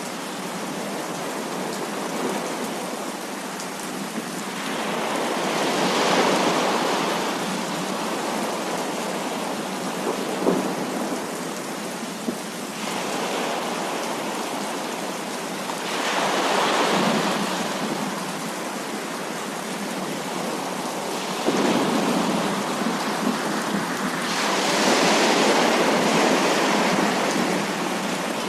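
Heavy rain falling steadily, with thunder rolling in long swells several times: about five seconds in, around sixteen seconds, and a longer roll from about twenty-two seconds.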